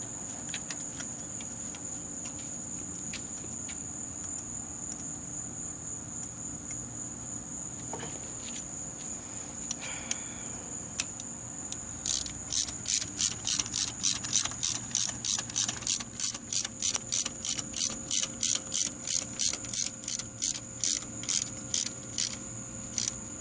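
Ratchet wrench with a 5/8-inch spark plug socket clicking rapidly and evenly, about three to four clicks a second, starting about halfway through as a spark plug is run in and tightened.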